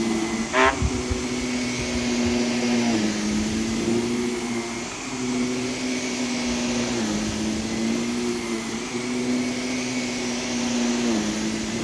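Vacuum cleaner running over a rug soiled with dry soil and pet hair, a steady motor hum whose pitch shifts slightly up and down every few seconds. There is a brief knock about half a second in.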